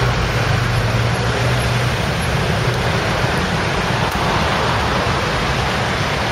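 Street traffic noise: a steady low engine hum for the first couple of seconds, then a broad swell of passing-vehicle noise.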